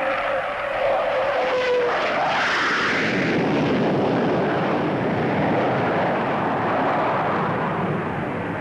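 Vickers Valiant jet bomber passing, its four turbojets heard as a whine that slides slightly down in pitch over the first two seconds. A broad rushing jet noise follows and eases near the end.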